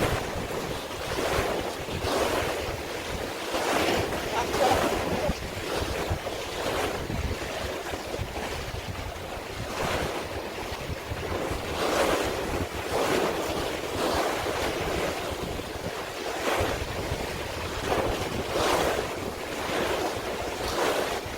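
Sea waves washing and splashing in repeated surges, with wind buffeting the microphone as a low rumble.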